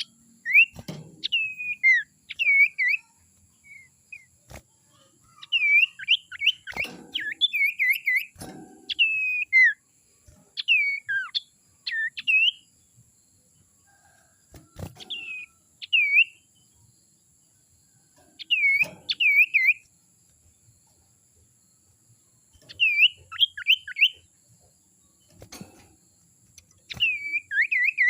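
Common iora (the 'sirtu' or cipoh) singing: repeated phrases of short, sweeping whistled notes, each phrase a second or two long with pauses between. A few sharp clicks fall between the phrases, over a faint steady high tone.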